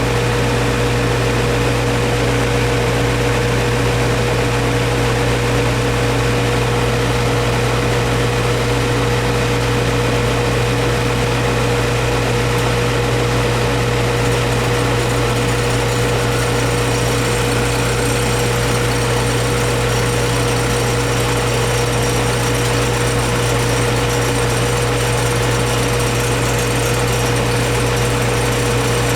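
Goodman R410a heat pump's outdoor unit running steadily, compressor humming with the condenser fan, during a pump-down: the refrigerant is being drawn out of the evaporator coil and stored in the condenser. A faint high whine joins about halfway through.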